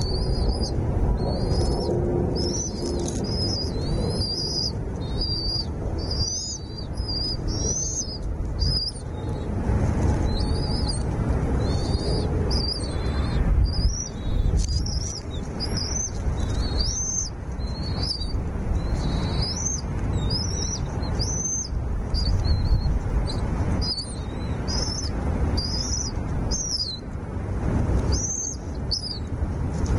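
Small bird chirping at the nest: short, high rising chirps, repeated about twice a second without a break, over a low rumbling noise.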